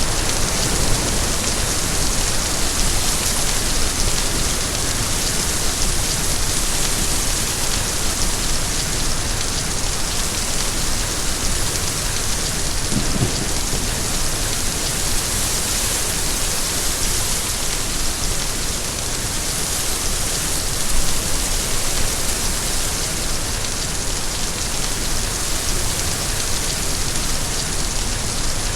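Steady rain falling: an even, unbroken hiss with no pauses.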